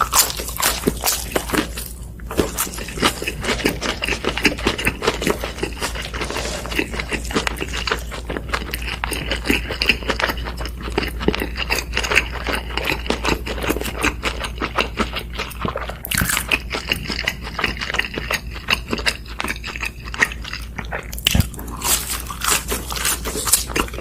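Close-up crunching and chewing of crispy fried chicken, a dense run of crackling bites.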